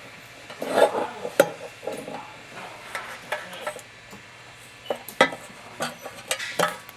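Irregular metallic clinks, taps and scraping from handling the control box of a Tippmann 15-ton clicker press and taking its air hose off. The sharpest knocks come about a second and a half in and again just past five seconds.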